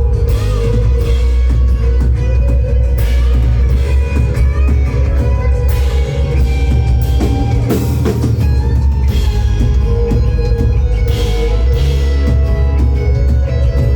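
Live rock band playing an instrumental passage: drum kit with recurring cymbal crashes, bass and electric guitar, with some bending guitar notes in the middle.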